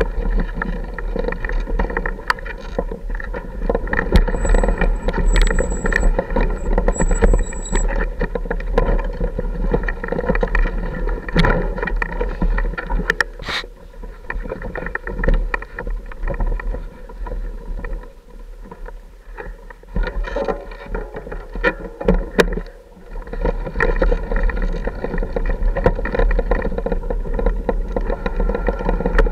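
Off-road motorcycle engine running steadily at low speed over a rough, rocky trail, with scattered knocks and clatter from the bike. The engine drops quieter for several seconds around the middle, then picks up again.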